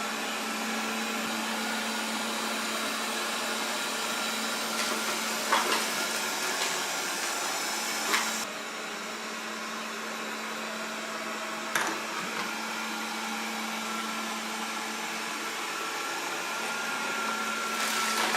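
Proscenic 820S robot vacuum running, its motor humming steadily under a constant hiss, with a few sharp ticks as it sweeps up cracker crumbs and raisins. The higher hiss drops a little about eight seconds in.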